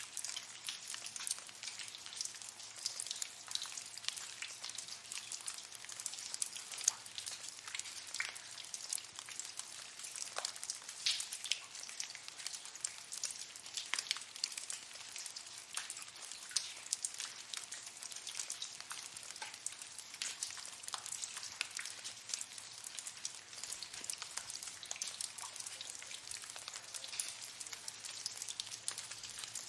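Water dripping in a cave: many drops landing close together in a dense, irregular patter of small ticks and plinks, with no let-up.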